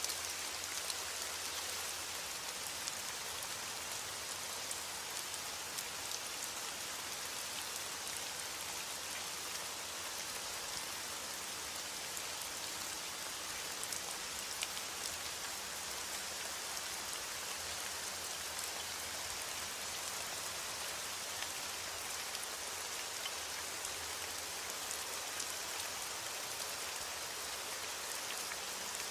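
Heavy rain falling on a window pane: a steady, even hiss of rain with many small drop taps scattered through it.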